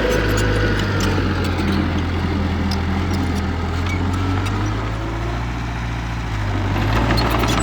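Heavy equipment diesel engine running steadily under work, easing off slightly past the middle and picking up again near the end.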